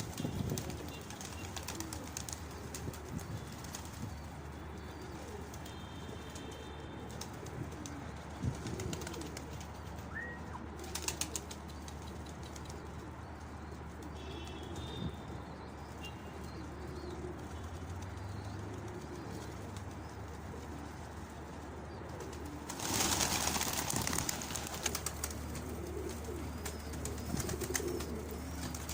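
Domestic pigeons cooing over and over, low and repeated, with a louder rustling burst near the end.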